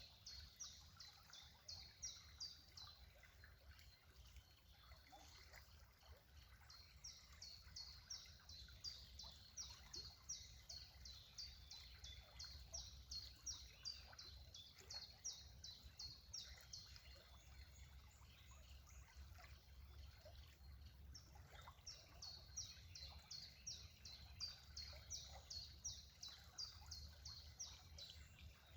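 A bird's quick, high-pitched chirps repeated about five or six times a second, in runs of several seconds that stop and start three times, over a faint low rumble of background noise.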